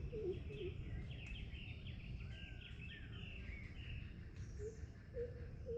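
Wild birds calling over a steady low background rumble. A quick run of short, low, repeated notes fades out at the start and returns near the end, and a higher chattering, twittering song fills the middle.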